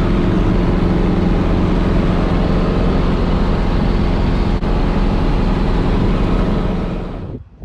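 Steady engine and rotor noise of a Guimbal Cabri G2 helicopter in flight, fading out near the end.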